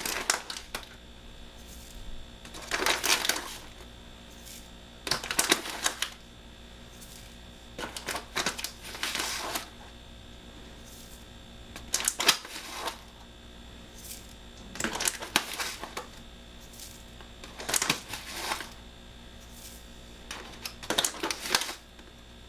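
Sesame seeds being shaken or poured into a bowl on a kitchen scale in short bursts: a dry rattling patter, repeated every two to three seconds.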